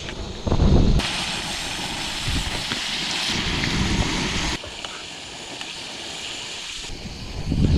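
Strong wind rushing and buffeting against the microphone. The noise jumps to a louder, hissier level about a second in, then drops back in steps.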